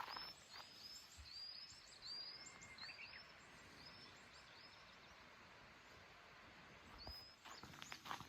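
Faint bird calls: a quick series of short, high chirps, several a second, for the first few seconds, then one more later. Faint footsteps or rustling near the end.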